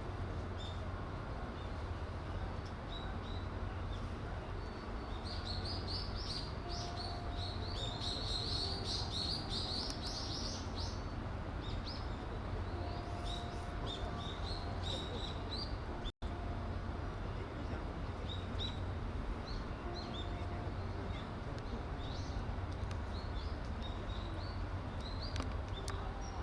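Small birds chirping, with a rapid run of high chirps from about five to eleven seconds in and scattered chirps after, over a steady low hum. The sound drops out for an instant about sixteen seconds in.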